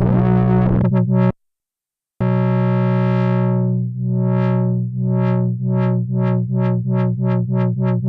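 Sequential analog synthesizer playing a patch: a fast-pulsing note cuts off about a second in and leaves a short silence, then a new held note comes in and starts pulsing in rhythmic swells that speed up toward the end.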